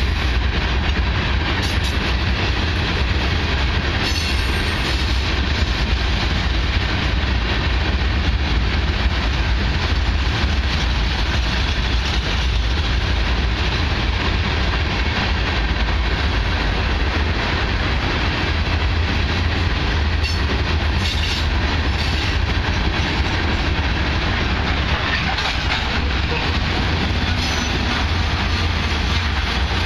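BNSF freight train's open-top hopper cars rolling past, steel wheels on the rails making a steady, unbroken noise.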